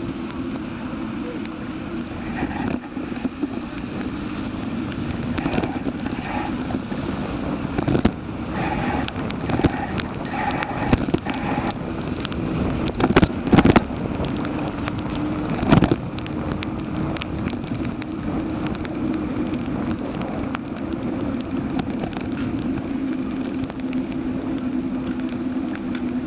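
Steady travel noise from a moving vehicle: a constant low hum with wind on the microphone. A few sharp knocks come about halfway through.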